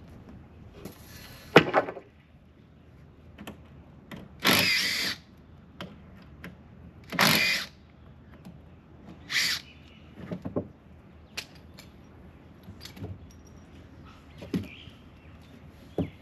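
Building-site work noise: four short rasping scrapes, each lasting under a second, with scattered knocks and clicks in between.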